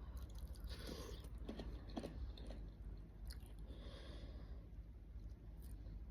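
Close-miked chewing of crunchy food, with several sharp crunches in the first couple of seconds and softer chewing after, over a faint steady low hum.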